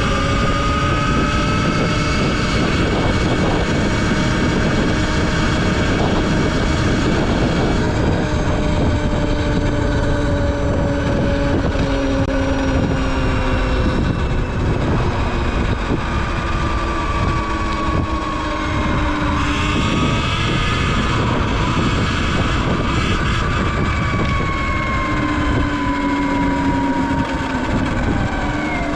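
Segway X160 electric dirt bike riding along a road: the electric motor's whine slowly rises and falls in pitch with speed, over steady wind rushing across the microphone.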